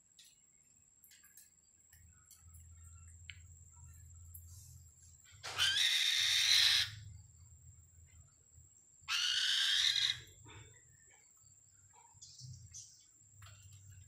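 A bird calling with two loud, high-pitched screeches, each lasting about a second, about three seconds apart.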